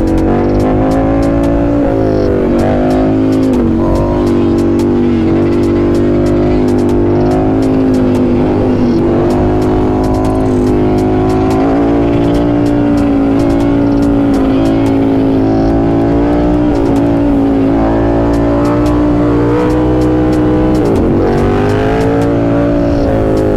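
Motorcycle engine running under way, its steady pitch dropping and climbing back several times as the rider shifts gears and rolls on the throttle.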